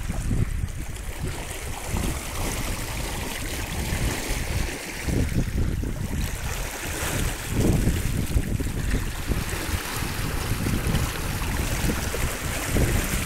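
Wind buffeting the microphone over the rush and splash of water along a sailboat's hull under way.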